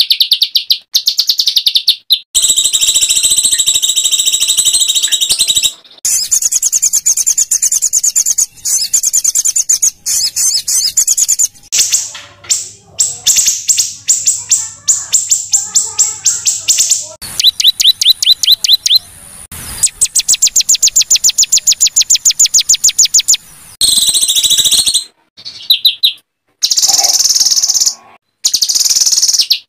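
Small songbirds' harsh rapid-fire calls ('tembakan kasar'), trains of sharp high notes repeated very fast, about ten a second, in loud bursts of a few seconds broken by abrupt short gaps.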